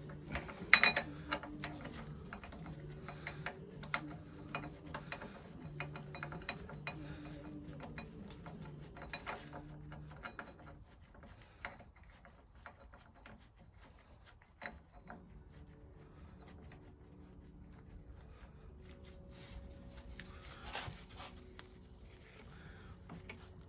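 Small puller being worked on a stuck part of an old stationary engine: a run of light metallic clicks and ratchet-like ticks as the tool is tightened by hand. Faint low tones step in pitch underneath for much of the time.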